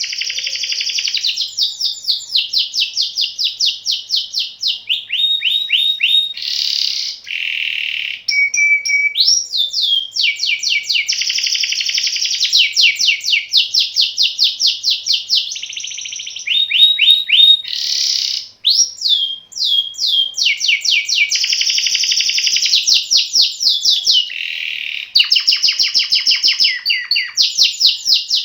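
Domestic canary singing one long, almost unbroken rolling song: fast trills of rapidly repeated notes, each run switching to a new note type every second or two, with a few short buzzy stretches between them.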